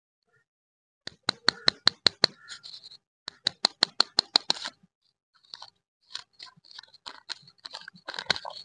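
Candy packaging being handled and opened: two quick runs of sharp clicks, about five a second, then softer, irregular crinkling and rustling.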